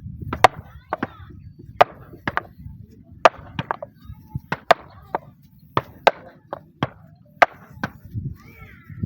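A blade or hand tool striking wood in short, sharp chops at an uneven pace, about one to two a second, with some strikes coming in quick pairs.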